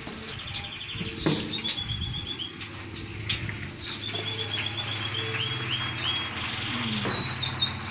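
Small birds chirping in repeated short, high trills over a steady low hum.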